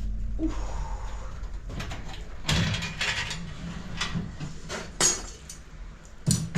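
Irregular knocks and clatters, about half a dozen spread over a few seconds, the last two close together near the end, over a low steady hum.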